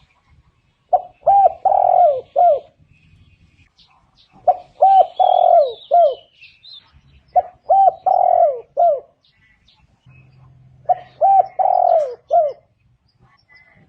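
Spotted dove cooing: four phrases of several quick coos each, repeated about every three seconds. Faint high chirps of small birds come in around the middle.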